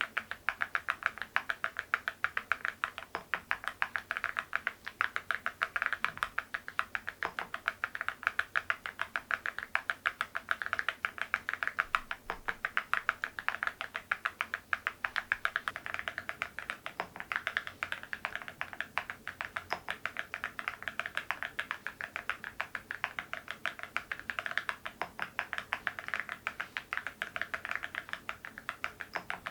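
Steady fast typing on an MZ Y3 mechanical keyboard fitted with ceramic keycaps: a continuous stream of clacky keystrokes, several a second.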